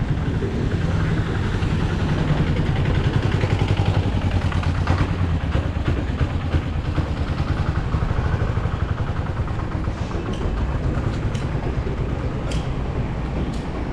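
A motor vehicle engine running close by, with a steady rapid pulsing; a few sharp clicks come in near the end.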